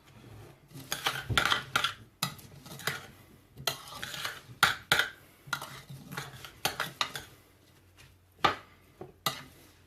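A spoon stirring and scraping a damp mix of soaked seed, broccoli and couscous in a bowl, with irregular clinks against the bowl.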